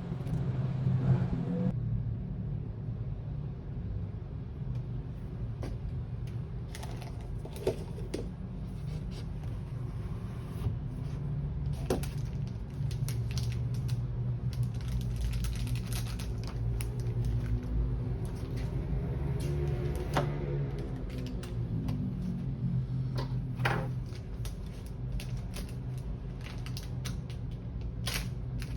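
A steady low rumble with scattered light clicks and taps. Around twenty seconds in, a pitched hum swells and then falls away.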